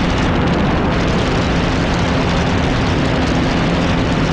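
Motorcycle riding at a steady cruise: a constant engine hum under loud, even wind rush on the microphone.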